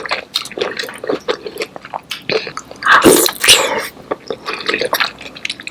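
Close-miked eating of saucy seafood: wet smacking and squelching clicks, with a louder sucking slurp about three seconds in.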